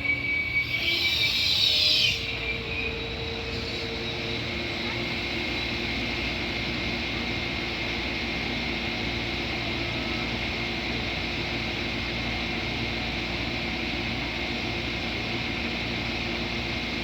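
Train running on the line: steady rail and engine noise with a few steady tones through it, and a louder burst of high hiss in the first two seconds.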